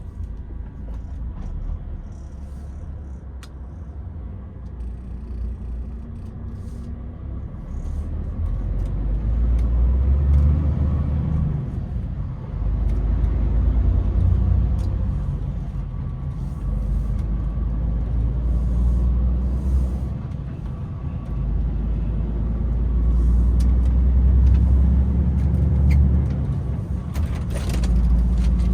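Low rumble of a DAF XF truck on the move, heard from inside the cab: engine and road noise that swells and eases every few seconds and grows louder over time.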